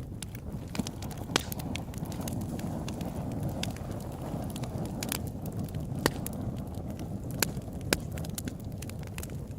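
Open-air wood campfire burning with a steady low rush of flames and frequent sharp crackles and pops, a few louder snaps scattered through.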